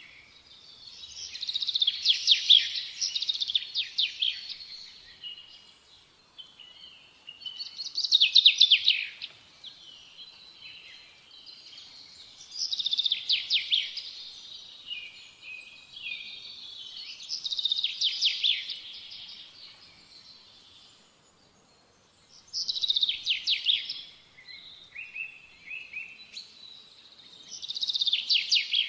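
A bird singing: loud phrases of fast trilled notes, repeated about every five seconds, with softer chirps between them.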